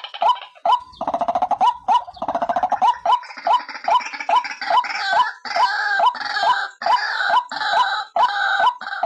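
White-breasted waterhen (ruak-ruak) calling: a sharp note repeated about three times a second, joined from about a second in by a denser, overlapping run of harsher calls. This is a recorded lure call used to attract the birds.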